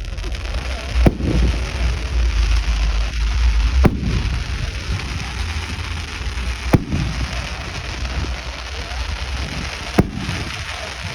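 Fireworks going off: four sharp bangs, roughly three seconds apart, over a steady hiss and a low rumble.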